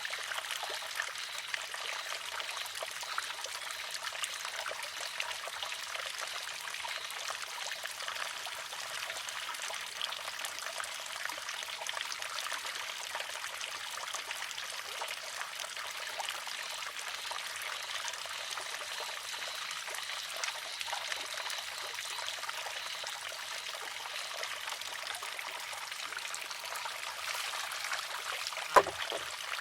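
Water trickling steadily into a wooden shishi-odoshi (sozu). About a second before the end, one sharp clack as the filled arm tips over and strikes its rock.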